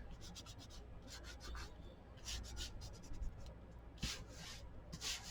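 Faint, irregular rubbing strokes of fingers smoothing down freshly glued paper on a journal page.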